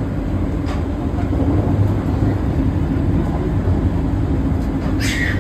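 Steady low rumble of a train running, with a faint steady hum over it. A short high-pitched sound near the end.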